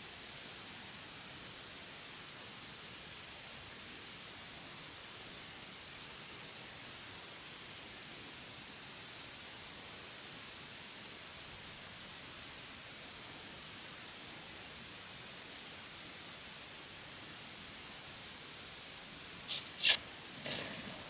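Steady high hiss, with two sharp clicks or knocks near the end, the second much the louder.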